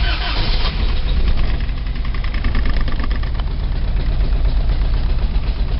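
1987 Toyota 4Runner's 22R-E four-cylinder engine cold-started: it cranks briefly, catches within about a second, then idles very rough and uneven. The misfire sounds like it is running on only two or three cylinders, from spark plugs fouled by burning coolant through a failed head gasket and cracked head.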